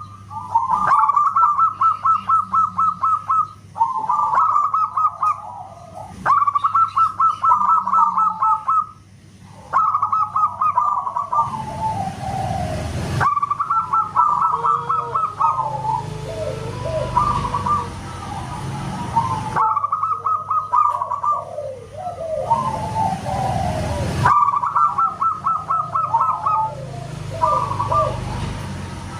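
Zebra dove (perkutut) singing loudly: phrases of fast, repeated cooing notes, each a few seconds long with short breaks between. Several stretches of rushing noise run underneath.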